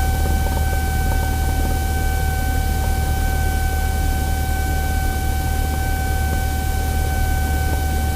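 Piston engine and propeller of a light single-engine plane running at taxi power, heard inside the cabin as a steady low drone under a hiss, with a steady high-pitched whine on top.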